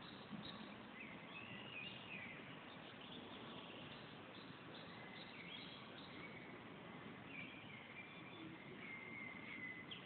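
Songbirds singing in the trees: short high whistled phrases and chirps, several times over, against a steady faint background hiss.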